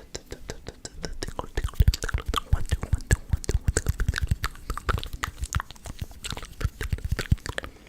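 Close-miked ASMR mouth sounds: a rapid, irregular run of wet clicks and smacks from lips and tongue, several a second.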